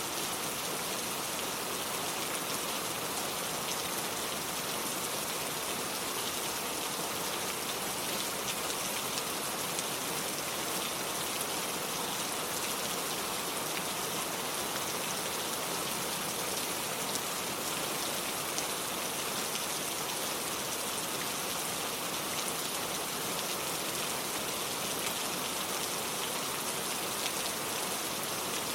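Steady rain falling: an even hiss of many fine drops with scattered individual drop ticks, unchanging throughout.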